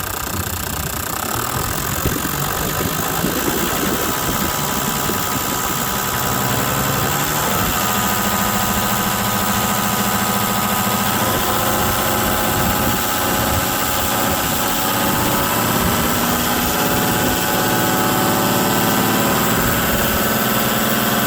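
Toyota 1HD-FTE 4.2-litre straight-six turbo-diesel running with its revs raised and held above idle. The engine note climbs gradually in a few small steps as the throttle is eased up, and grows slightly louder.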